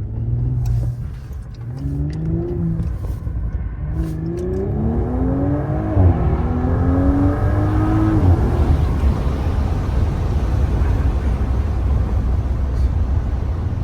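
Audi engine accelerating through the gears: the engine note climbs and drops back at each upshift, three times, then settles into a steady low rumble. A few sharp exhaust pops and crackles come in the first few seconds.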